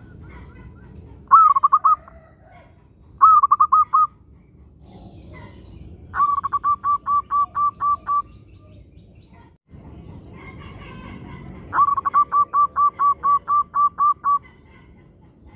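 Zebra dove (perkutut) cooing in phrases of quick, evenly spaced staccato notes. Two short phrases come first, then two longer runs of about ten notes each lasting two seconds or more.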